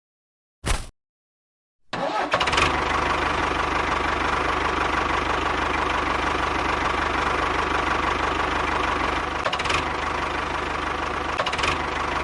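An engine starts up about two seconds in and runs steadily with an even low rhythm, after two short knocks.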